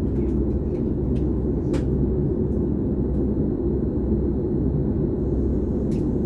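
Steady low rumble inside the passenger cabin of a Frecciarossa high-speed train running along the track, with a faint click about two seconds in and another near the end.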